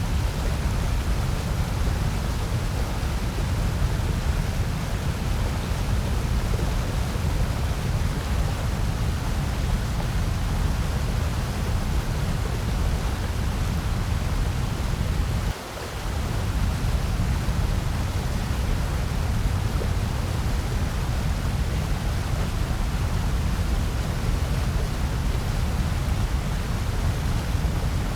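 Steady generated noise (sold as white noise): an even, unbroken hiss with most weight in the low end, dipping briefly in level about halfway through.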